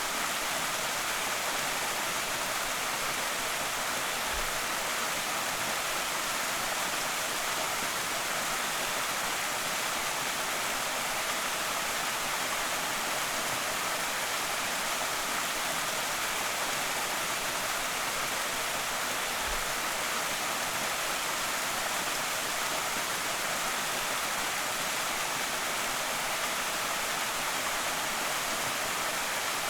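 Small waterfall on a creek: water spilling and splashing in a steady, even rush, strongest in the upper range.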